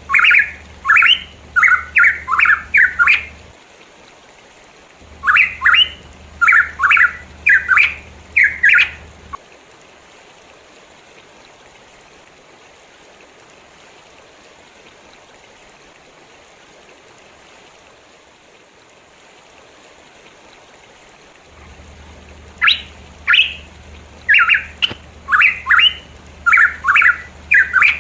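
Pitohui singing in bouts of rapid, sharp repeated notes: two bouts early on, then about twelve seconds with only a faint steady hiss, then the song resumes near the end.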